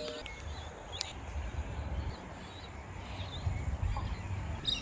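Outdoor ambience: a steady low rumble with faint, scattered bird chirps, and the last of a bell's ringing dying away right at the start.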